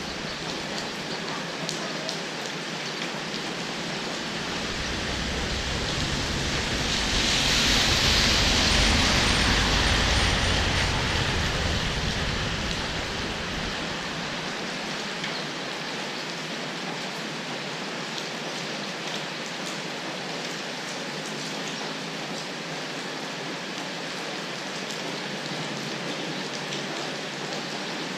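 Steady hiss of heavy rain, swelling louder and deeper for a few seconds about seven to eleven seconds in.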